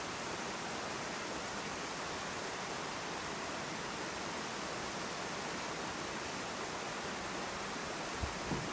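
Creek water rushing steadily over stepping stones, running high after heavy rain. Two soft low thumps come near the end.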